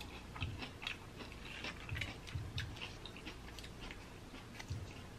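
Close-miked chewing: a person eating, with soft irregular crunches and small mouth clicks several times a second.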